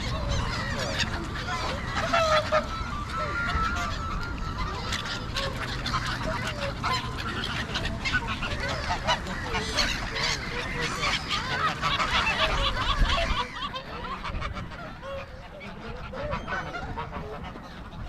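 A crowd of waterbirds on the lake calling over one another: many short honking and squawking calls, with wind rumbling on the microphone. About thirteen seconds in the calls thin out and the sound drops in level.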